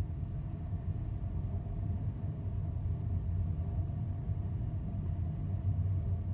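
Steady low rumble of a large car ferry's engines and hull heard aboard, with a faint steady hum above it.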